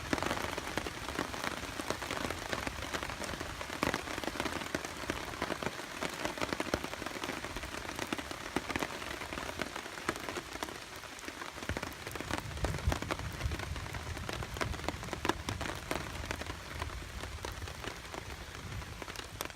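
Rain falling steadily, with dense patter of individual drops hitting a surface.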